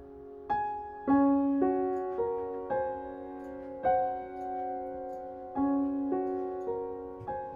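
Background music: a slow, gentle solo piano piece, single notes struck about every half second and left to ring.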